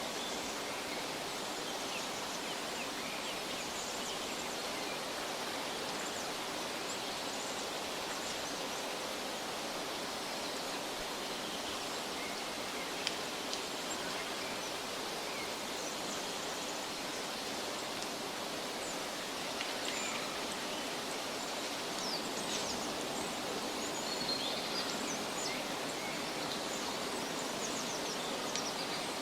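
Steady, even rushing noise of outdoor ambience, with faint short high chirps scattered through the second half and a couple of brief clicks near the middle.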